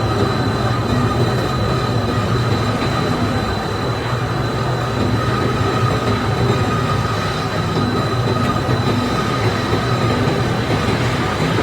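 Self-unloading ship's cargo machinery running steadily while discharging phosphate ore: a continuous mechanical rumble with a steady high whine over it.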